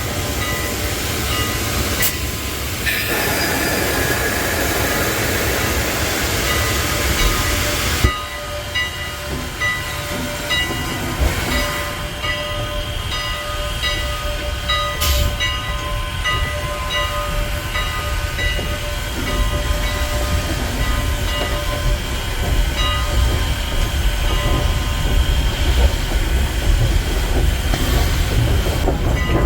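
Steam train running with a steady low rumble. A loud hiss of steam lasts about five seconds near the start and cuts off suddenly, followed by faint steady high-pitched tones over the rumble.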